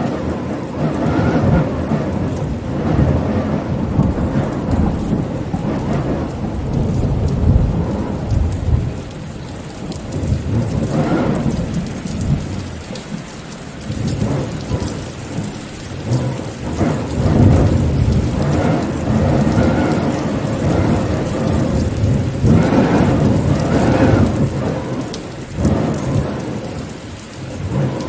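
Steady rain with low rolling thunder rumbles that swell and fade again and again.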